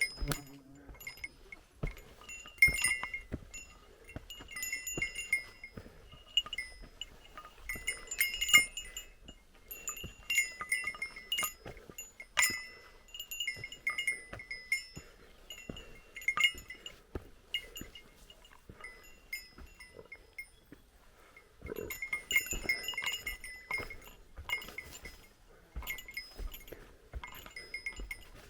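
A small metal bell, the bear bell that mountain hikers carry, jingling in irregular runs of rings as the hiker walks, with a quieter stretch about two-thirds of the way through.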